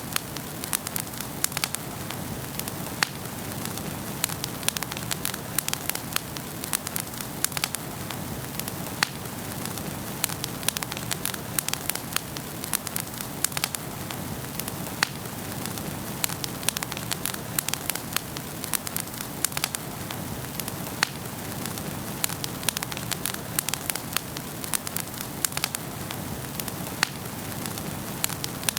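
Wood fire burning in a fireplace: a steady low rush of flame with frequent sharp crackles and pops at irregular moments.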